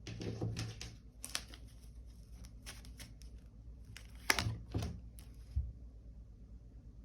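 Tarot cards being handled and laid out on a table: a series of short slaps, clicks and paper rustles, the sharpest about four seconds in.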